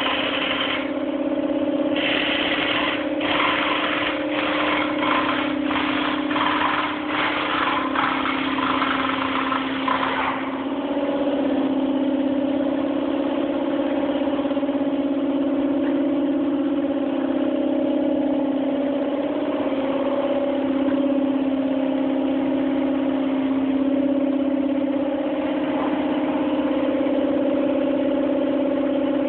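A used Dodge Intrepid 2.7-litre V6 engine running out of the car, with a steady idle drone. In the first ten seconds a string of short, sharp bursts of noise rides over it, then it settles to a steady run.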